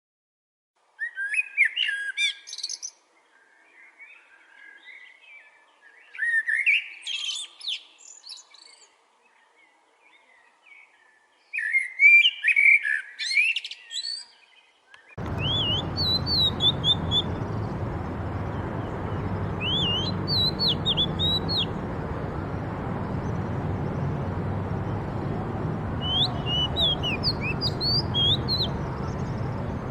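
Birds chirping and singing in three short bursts of rapid, jumbled notes with quiet gaps between. About halfway through it changes abruptly to a steady rushing background with a bird repeating short, high, upward-swept chirps every couple of seconds.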